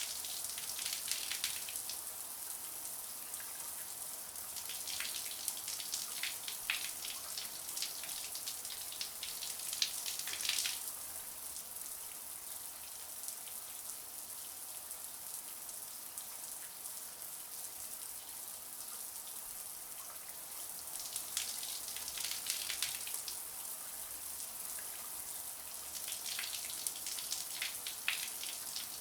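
Shower water running steadily, a hiss of spray with stretches of heavier patter and splashing that come and go every several seconds.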